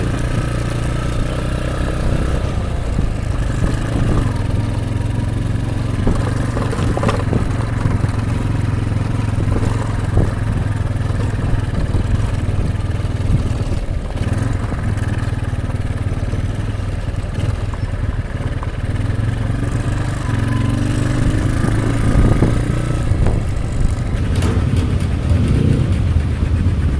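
A vehicle engine running steadily, a low continuous drone.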